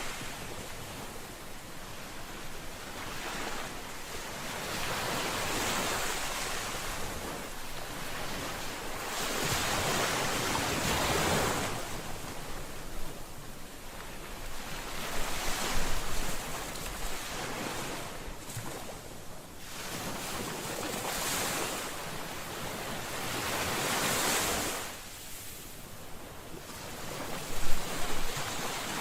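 Ocean waves breaking and washing onto a shore, swelling and ebbing every few seconds, with some wind on the microphone and a few sharper crashes near the end.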